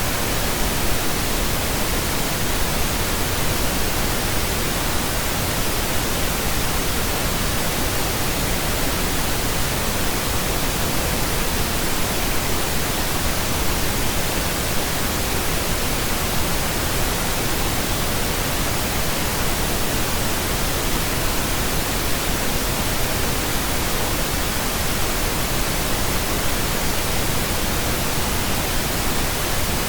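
Steady synthetic pink noise: an even, unchanging hiss across the whole range, with no rhythm or tones.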